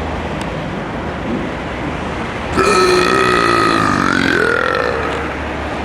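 A loud, drawn-out burp-like vocal sound starting about halfway through and held for a couple of seconds, wavering in pitch, over a steady background of noise.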